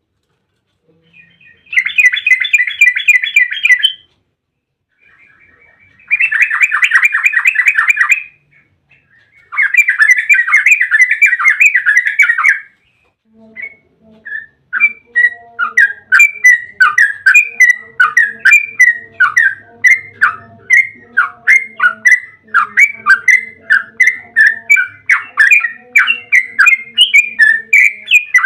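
Yellow-vented bulbul (trucuk) song: three rapid trills of about two seconds each, then a long unbroken run of quick chattering notes, three or four a second, in the fast rolling style called ropel.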